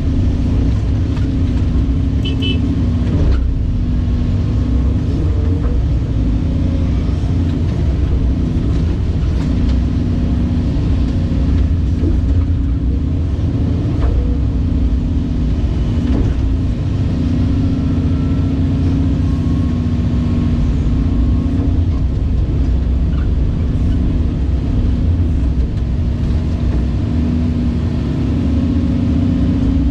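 Caterpillar 349E excavator's diesel engine running steadily as the machine works, a constant low rumble. Two or three faint short high chirps sound about two and a half seconds in.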